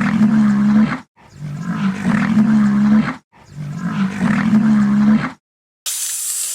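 A large animal gives three loud, drawn-out roaring calls of about two seconds each, with short gaps between them. Near the end a sharp hiss follows.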